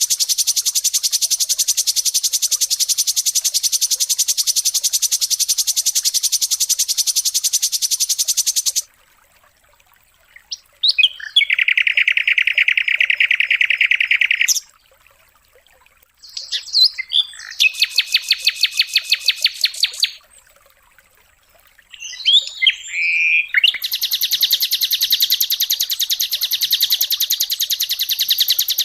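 Songbird song on a bird-song training recording, sung in very fast high trills. A long trill runs for about nine seconds; after a short pause comes a lower trill of about three seconds, then a rattle of rapid notes, then another long high trill from about two-thirds of the way in.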